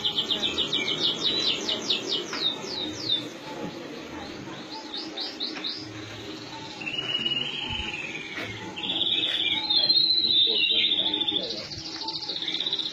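A small bird sings in quick runs of sharp chirps, about five a second. In between come shorter phrases and a warbling stretch. A low steady background noise runs underneath.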